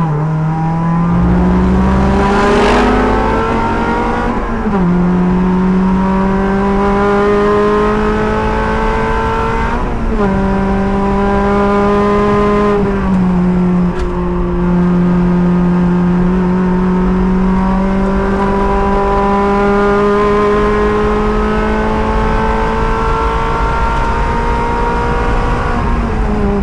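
Race car engine running hard, heard from the driver's helmet. Its pitch climbs slowly and drops sharply a few times along the way.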